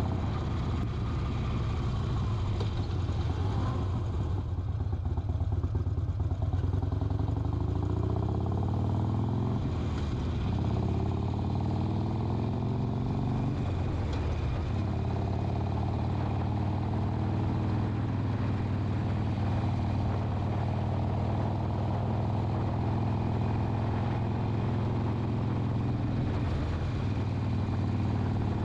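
Harley-Davidson Sportster XL 1200 Custom's air-cooled V-twin engine running under way. The revs rise twice in the first half as it accelerates, then it holds a steady pace.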